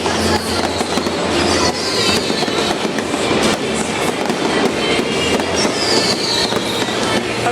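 Fireworks crackling and popping in a dense, continuous barrage, with a few falling high whistles.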